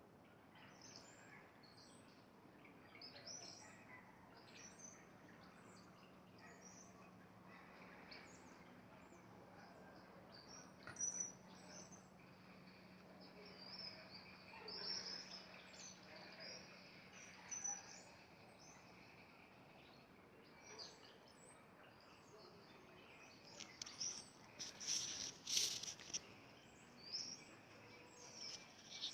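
Small birds chirping and calling in many short, high chirps, with a denser, louder flurry near the end.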